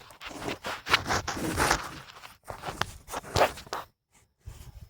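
Handling noise from a camera being set up and repositioned: irregular knocks, scrapes and rustles, falling nearly silent briefly near the end.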